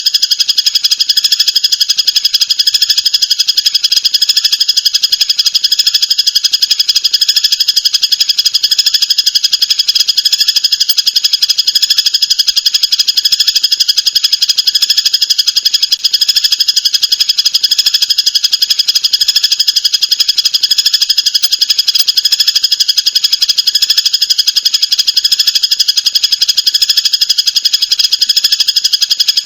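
A songbird's very fast, unbroken chattering trill, repeated continuously at a high pitch, as in a looped birdsong training recording.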